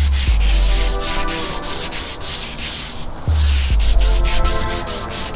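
Sandpaper rubbing back and forth over the boat's surface in quick, regular strokes, about four a second. A music track with deep, dropping bass notes plays underneath.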